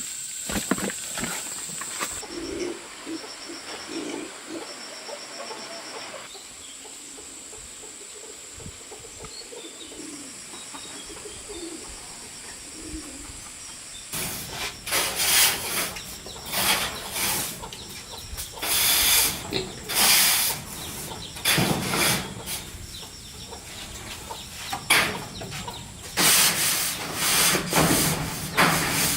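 Chickens: a few soft low clucks over quiet farm background with insect chirps, then from about halfway loud, irregular bursts of wing-flapping and scuffling.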